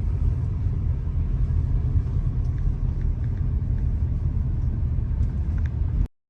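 Steady low rumble heard from inside a moving vehicle, with no voices, cutting off suddenly near the end.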